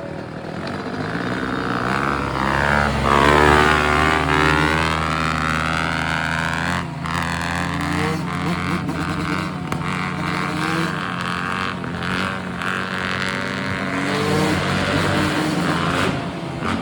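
Dirt bike engines running: a steady low engine note throughout, with a bike revving hard about three seconds in, its pitch sweeping up and down.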